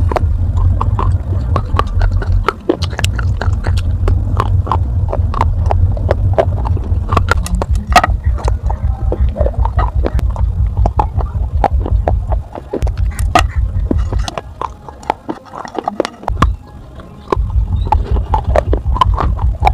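Close-miked biting and crunching of hard baked terracotta pieces from a gullak (clay piggy bank): dense sharp cracks, several a second, over a low rumble, letting up for a couple of seconds about three-quarters of the way through.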